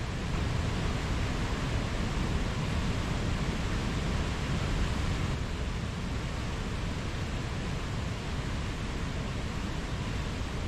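Mountain stream rushing steadily over rocks, a constant full-range wash of flowing water.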